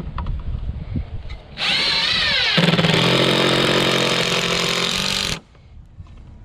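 Power drill running for about four seconds: its pitch swoops up and down as it starts, then holds steady before it cuts off suddenly.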